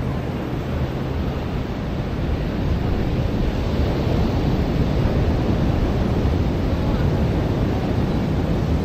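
Ocean surf washing onto a beach, a steady rush of noise that swells a little about two seconds in, with wind buffeting the microphone.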